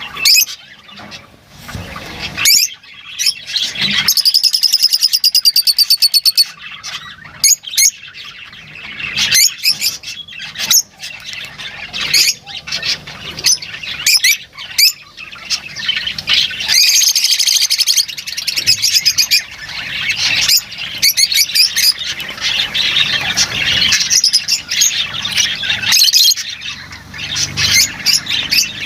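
Lovebirds calling: a continuous run of shrill chirps and squawks, with fast rattling trills about four seconds in and again around seventeen seconds.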